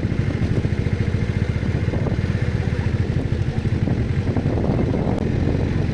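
A vehicle engine running steadily with a rapid, low throb.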